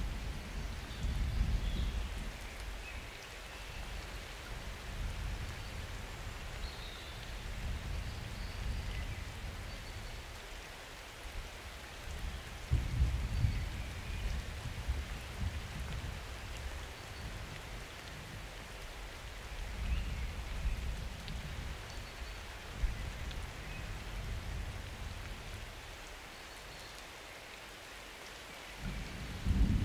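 Summer thunderstorm: steady rain falling, with low rolls of thunder swelling and fading several times. The strongest come around the middle and right at the end.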